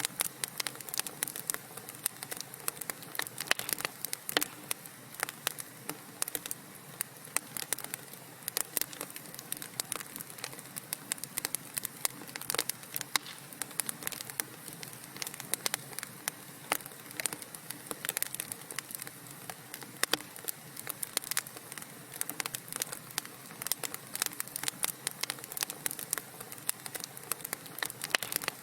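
Wood fire crackling steadily, with dense, irregular snaps and pops over a soft hiss.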